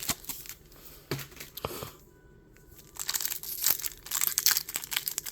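Pokémon card packaging crinkling and tearing as a pack is opened by hand: crackly foil-wrapper and plastic noise, pausing briefly around two seconds in, then thicker crinkling near the end.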